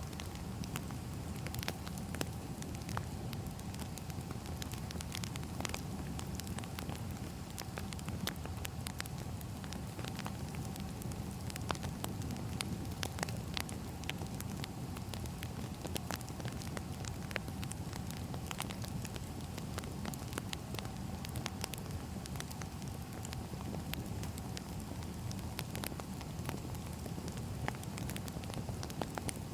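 Wood fire burning: a steady low rumble with frequent, irregular crackles and pops of burning firewood.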